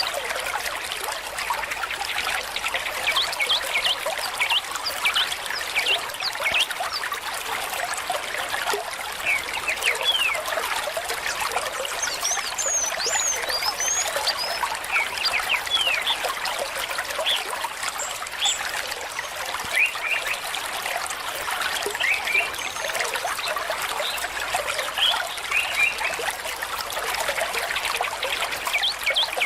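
Small stream trickling and gurgling over stones: a steady rush of water full of quick, bright bubbling notes.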